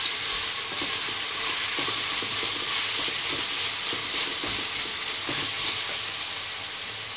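Sliced onions, green chillies and ginger-garlic paste sizzling steadily in hot oil in a pressure cooker pot, stirred with a wooden spoon that brushes and scrapes the pot now and then.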